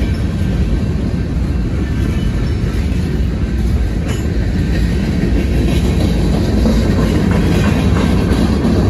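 Freight cars of a long manifest train rolling past at speed: a steady, heavy rumble of steel wheels on rail with clicking over the rail joints, getting a little louder in the second half.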